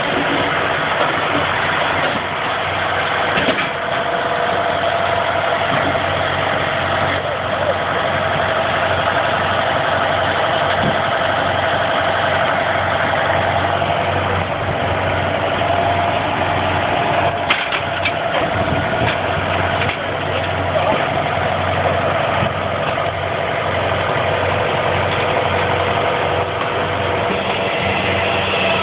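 Tajfun RCA 400 firewood saw-splitter running steadily under engine power, with a few short knocks about two-thirds of the way in.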